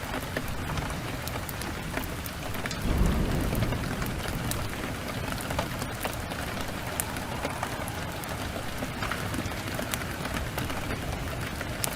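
Steady rain with a wood fire crackling in sharp irregular pops, and a low rumble swelling about three seconds in.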